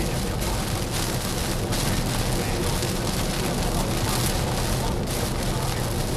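Water spraying and drumming on a car's body: a steady hiss over a low rumble, louder for stretches about half a second in and again about four seconds in.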